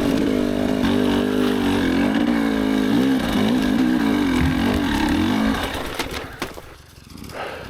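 KTM enduro dirt bike engine running at a low idle, its pitch rising and falling slightly with small blips of the throttle, then stopping about five and a half seconds in.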